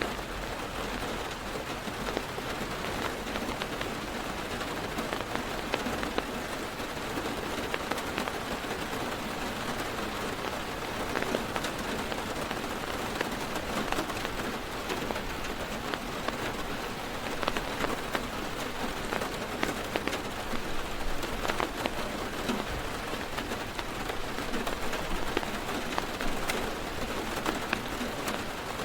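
Heavy rain drumming steadily on a car's roof and windows, heard from inside the car, with many individual drops ticking sharply against the steady hiss.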